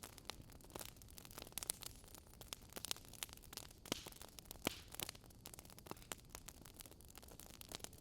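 Wood fire in a fireplace crackling, with many small irregular pops and snaps over a soft hiss of burning.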